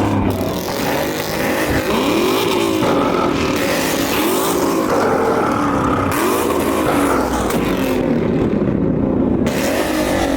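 A car engine revved hard again and again, each rev climbing in pitch and falling back, several times over the stretch.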